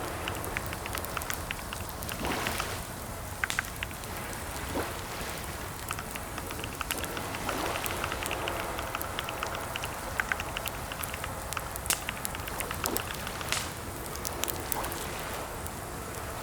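Computer keyboard typing: irregular runs of clicking keystrokes over a steady hiss.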